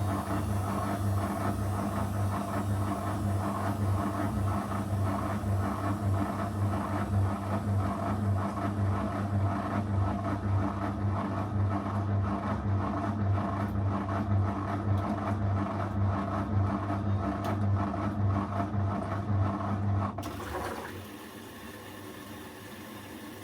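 Zanussi FL984CN front-loading washing machine running its wash cycle, the drum motor giving a steady low hum with a regular pulsing. About twenty seconds in the motor cuts off abruptly, leaving a much fainter steady hiss.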